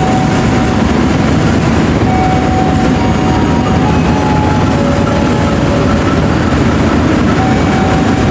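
Railway train running: a steady, loud rumble, with faint high tones held for about a second each at changing pitches.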